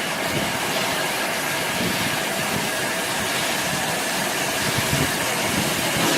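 Steam locomotive letting off a steady hiss of steam for several seconds over the low rumble of the train.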